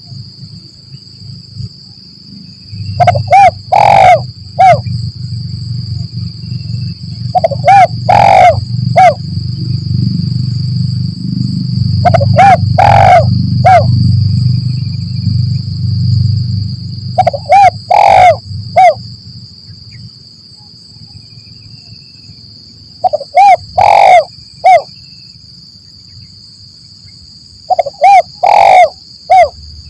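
Spotted dove (tekukur) cooing: a short phrase of about four notes repeated six times, roughly every five seconds. Under it runs a steady high insect drone, with a low rumble through the first half.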